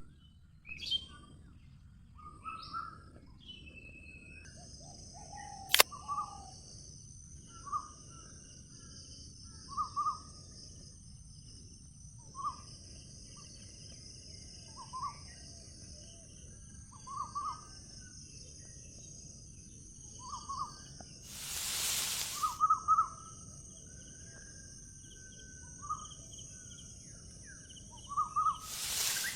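A bird calling repeatedly, one short call about every two seconds, over a steady high-pitched hiss. A sharp click comes about six seconds in, and a brief rush of noise about two-thirds of the way through.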